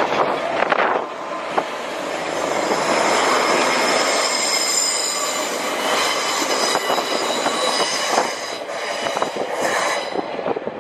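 A train moving along a station platform, with a rumble and a steady high-pitched metallic squeal from its wheels that sets in about two seconds in and dies away near the end.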